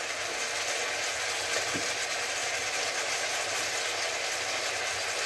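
Eggs, chilies and onion in a black pepper sauce sizzling in a wok: a steady, even hiss.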